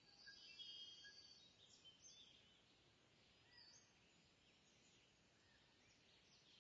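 Near silence with faint, high-pitched bird chirps and short whistled calls, a few of them in the first two seconds and one more group about halfway through.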